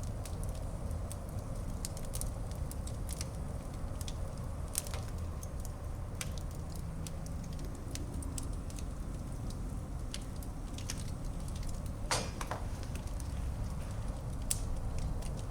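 Wood fire burning in a fireplace: a steady low roar of flames with irregular sharp crackles and pops, one louder pop about twelve seconds in.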